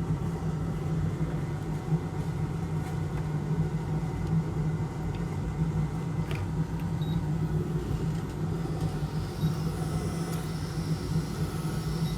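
Steady low machine hum with a faint hiss from repair-bench equipment running during desoldering, with a couple of faint clicks partway through.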